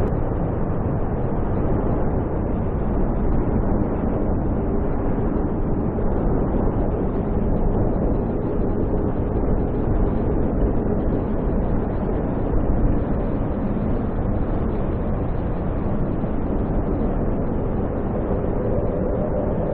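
Snowstorm wind roaring steadily, without letup.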